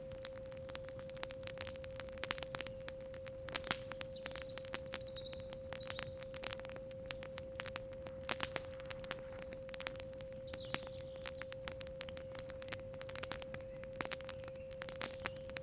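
Campfire crackling with frequent irregular snaps and pops over a steady 528 Hz sine tone. Faint bird chirps come in twice, about a third of the way in and again past the middle.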